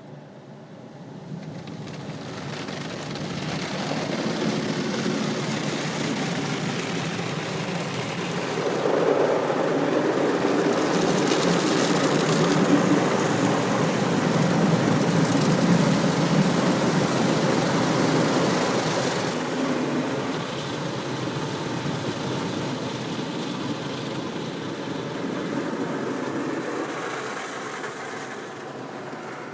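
Automatic car wash equipment working over a car: a continuous rushing noise that builds about two seconds in, is loudest in the middle with an added high hiss, and eases off near the end.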